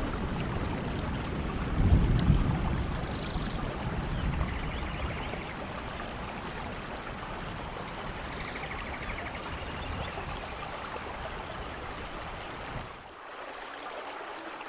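Steady rain, with a louder low rumble swelling about two seconds in.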